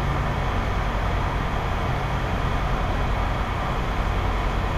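Steady low mechanical rumble and hum under an even hiss, with no distinct knocks or changes.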